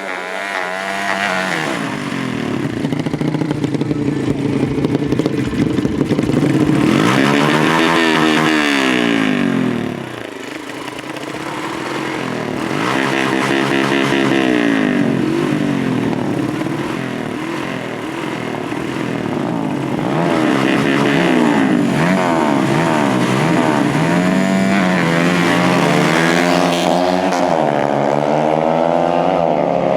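Dirt-bike engines revving hard, their pitch climbing and falling again and again as they accelerate and shift, with a short lull about ten seconds in.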